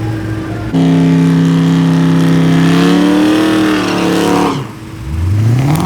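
Drag-race V8 engines at full throttle. The engine note holds steady for about two seconds, then climbs in pitch. It cuts off abruptly and starts rising again, like a gear change.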